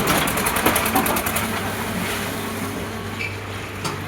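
Tractor diesel engine running with a steady low hum and a fast, even clatter for about the first second and a half, which then fades.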